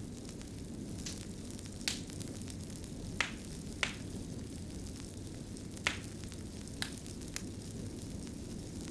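Fire crackling: a steady low rush of flame with about six sharp pops scattered through it.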